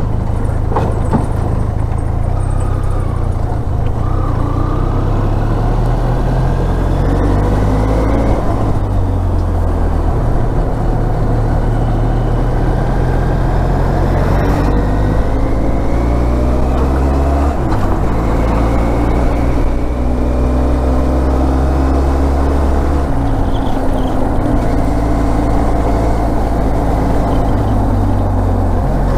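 Motorcycle engine running at road speed over a steady low rumble, its note rising and falling a few times with the throttle.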